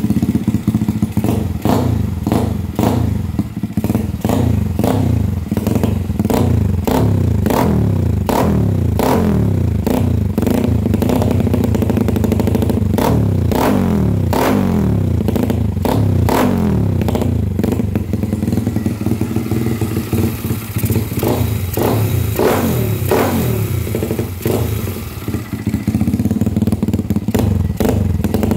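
Honda Wave Alpha's single-cylinder four-stroke engine running through an AUN aftermarket muffler, starting suddenly and then revved in many short throttle blips over a steady idle while it warms up.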